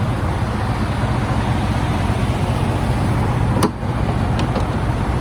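Steady rumble of idling vehicle engines and traffic, with a single sharp click about three and a half seconds in.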